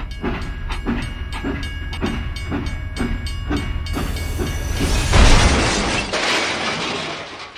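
Toy train running on its track, clicking about twice a second over a low motor hum, with a few steady electronic tones. About five seconds in a loud hiss takes over, then fades.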